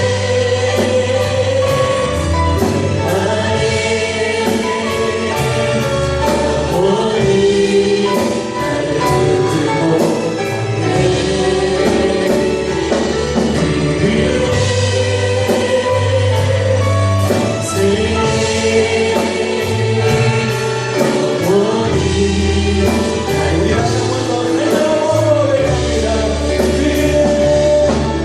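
A gospel praise song: a group of voices singing together over a band with steady bass and a regular beat.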